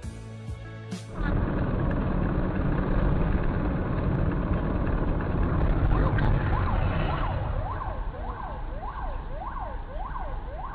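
Steady low rumble of a car's engine and road noise heard from inside, after a short bit of guitar music. From about halfway through, an emergency-vehicle siren sweeps up and down about twice a second.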